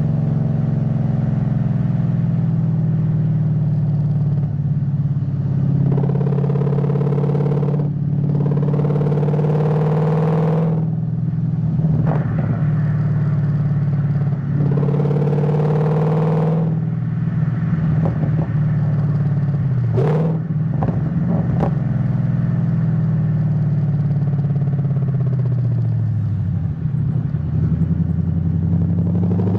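Ford Mustang GT S197 V8 engine running at a fairly steady engine speed, with several brief stretches where it gets louder and fuller as the throttle opens. Near the end the pitch falls and then starts to climb again.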